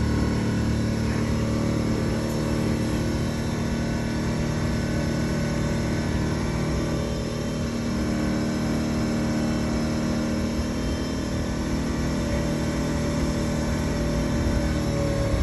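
The glass-bottom tour boat's motor running steadily at a constant pitch.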